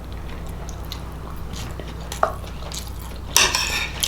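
A person chewing food close to the microphone, with small wet mouth clicks and a louder, noisier mouth sound near the end, over a steady low electrical hum.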